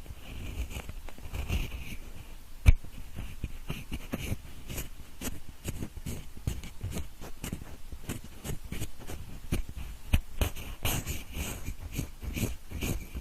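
Pencil scratching and rubbing in the style of ear cleaning: a quick, uneven run of short scratchy strokes, with one sharp click about two and a half seconds in.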